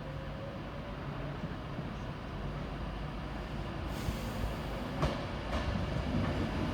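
Virgin Trains Class 390 Pendolino electric train pulling away, a low rumble that builds in loudness. From about four seconds in it gets brighter and hissier, with a few sharp clicks near the end.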